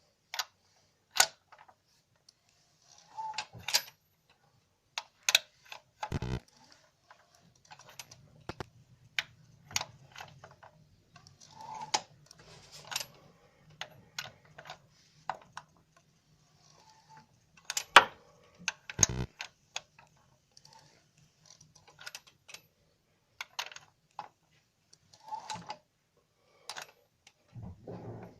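Short squeaks from a Sirius G4JS/G4JP engine, coming a few seconds apart among scattered clicks and knocks, over a faint low hum.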